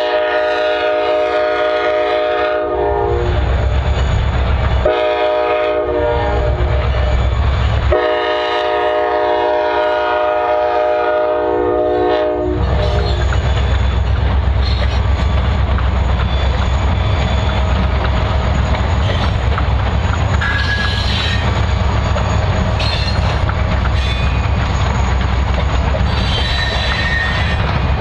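Turbocharged EMD SD40-2 diesel locomotive sounding its horn as it passes a grade crossing: a long blast ends about three seconds in, a short blast comes around five seconds, and a final long blast runs from about eight to twelve seconds. Under and after the horn is the rumble of the locomotive pulling a loaded grain train, then loaded covered hopper cars rolling by with wheels clicking over the rail joints and brief wheel squeals.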